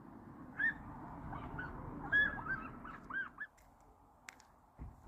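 Birds calling: a quick string of short, arching honk-like calls over a steady low background noise that stops about three and a half seconds in.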